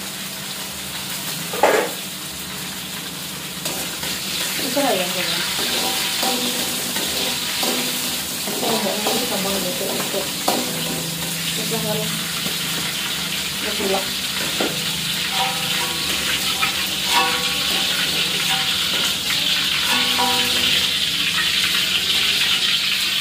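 Food frying in hot oil in a wok, sizzling steadily, with a metal spatula stirring and scraping the pan. There is a sharp metal clank about two seconds in, from the lid that has just been lifted off, and the sizzle grows louder toward the end.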